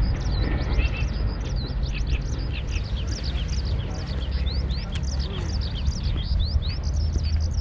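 Many small birds chirping together in rapid, overlapping calls, over a low steady rumble.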